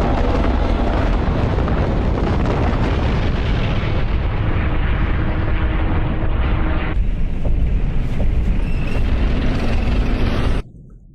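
Dense, continuous battle noise: a deep rumble packed with rapid explosions and impacts. It cuts off abruptly just before the end.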